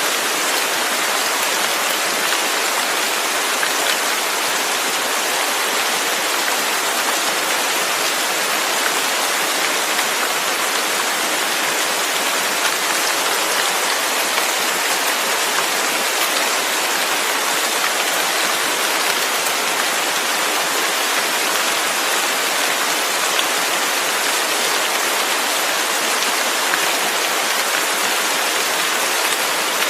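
Steady rain falling, a constant hiss of drops with faint scattered patter.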